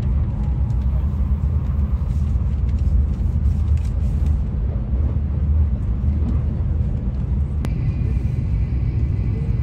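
N700A Shinkansen running at speed, heard inside the passenger car: a steady low rumble of running and track noise. There is a brief click near the end, after which a faint high whine joins the rumble.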